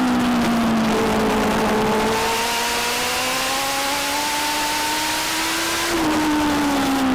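Legend car's four-cylinder motorcycle engine racing around a short oval. It comes off the throttle during the first second, then pulls with a steadily rising pitch for about five seconds. It lifts again about six seconds in, the pitch falling.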